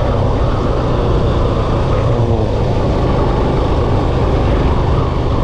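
Yamaha FZ V2 motorcycle's single-cylinder engine running steadily under way, with wind rushing over a helmet-mounted microphone.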